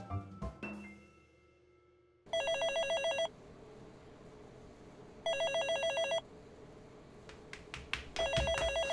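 White push-button desk telephone ringing with an electronic warbling trill, three rings of about a second each, spaced about three seconds apart.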